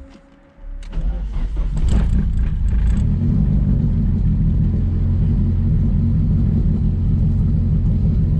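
Car engine running steadily, heard from inside the cabin, with a few clicks and knocks in the first couple of seconds.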